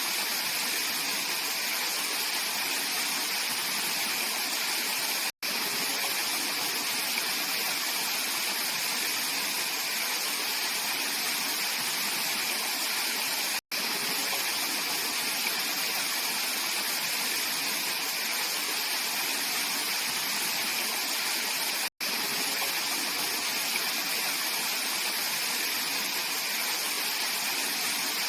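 Mountain valley stream rushing steadily over rocks, a continuous full hiss of running water. It cuts out to silence for a split second three times, at roughly eight-second intervals.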